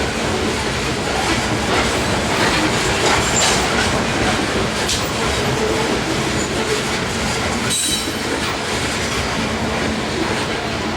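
Freight train cars rolling steadily past on the track, wheels clacking over the rail joints, with a brief high wheel screech about eight seconds in.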